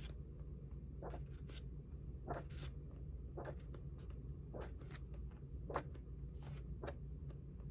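Sheets of a paper pad being turned one after another by hand, about a dozen short papery swishes at irregular intervals.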